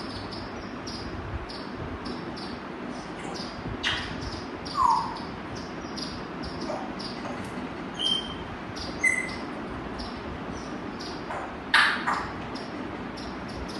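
Pet parrot giving scattered short calls: a falling call about five seconds in, two brief whistles around eight and nine seconds, and a loud harsh squawk near the end. Rapid high chirps repeat throughout.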